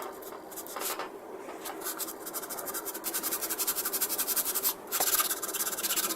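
Sandpaper rubbing back and forth over the plastic of a model kit's joined parts, sanding down the seam. Quick, short scraping strokes come faster and louder from about halfway through.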